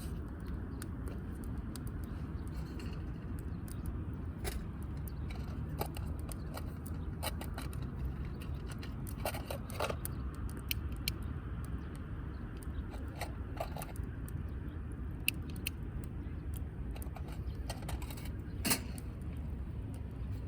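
Wood fire in a wood-grill fire pit crackling, with scattered sharp pops over a steady low rumble.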